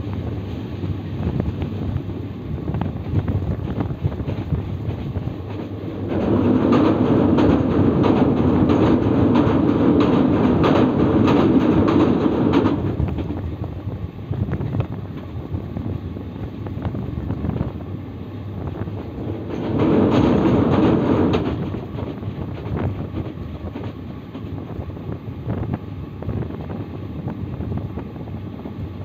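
Passenger train running along the track, heard from the carriage window: a steady rumble of wheels on rail. It swells louder for about six seconds a fifth of the way in, and again briefly about two-thirds through.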